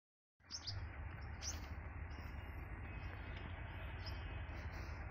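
A few short bird chirps over a steady low rumble and hiss of outdoor background noise.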